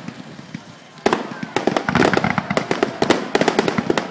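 Fireworks finale barrage: after a brief lull, about a second in, a rapid, dense run of many overlapping bangs and crackles begins.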